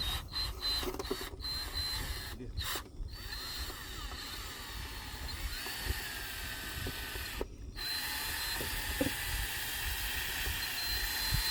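Power drill spinning a dryer-vent cleaning brush on rods through the vent duct, its motor pitch sliding up and down with a few brief breaks.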